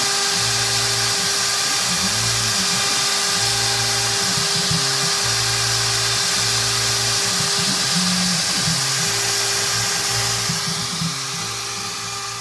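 CNC router spindle running steadily as it cuts quadcopter frames from G10 fibreglass sheet, with background music over it; the sound fades out near the end.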